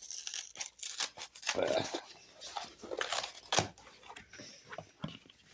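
Cardboard comic mailer being handled and opened: irregular rustling, scraping and tearing of cardboard and paper, with sharp clicks.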